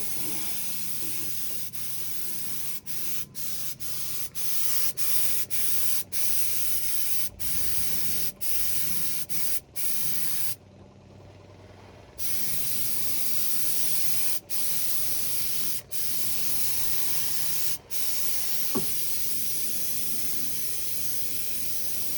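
Compressed-air paint spray gun hissing as it lays on paint in passes. The trigger is let off briefly about a dozen times and stopped for about a second and a half near the middle.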